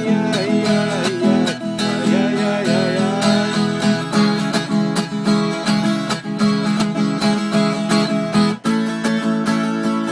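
Viola caipira, the Brazilian ten-string guitar, played solo with quick, rhythmic plucked and strummed strokes. There is a brief break about eight and a half seconds in, after which it goes on with a new chord.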